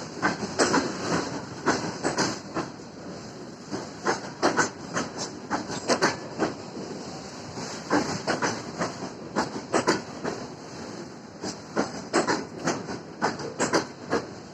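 Freight train wheels clacking over rail joints and points while shunting, with many sharp clacks in irregular clusters over a steady rolling noise.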